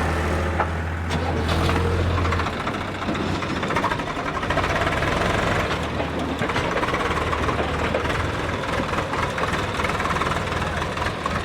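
Diesel tractor engine running, Powertrac 445. A steady low hum drops away about two and a half seconds in, and the engine runs on with a rougher, knocking sound.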